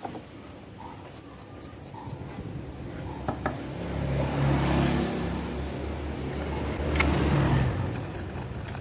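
Cleaning the contacts of a power window switch's connector: a scratchy, rubbing noise that builds about three seconds in, swells twice and fades near the end, with a few sharp clicks.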